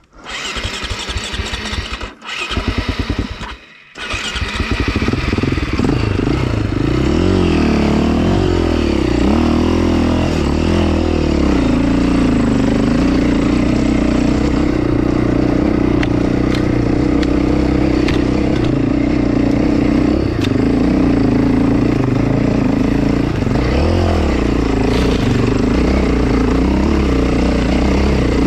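KTM 450 enduro's single-cylinder four-stroke engine restarting: two short bursts of firing, each cut off, before it catches about four seconds in. It then runs steadily under changing throttle as the bike climbs a rocky trail.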